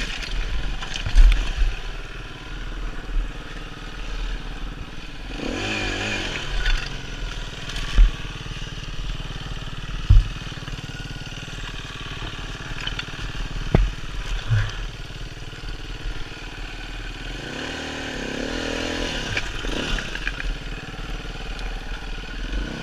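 Dirt bike engine running, with the revs rising and falling about five seconds in and again near the end. Several sharp knocks break in along the way.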